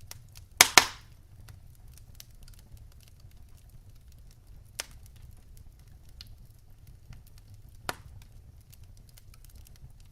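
Wood fire in a fireplace crackling, with a loud sharp double pop a little after the start and two smaller pops later, over a low steady rumble of the flames.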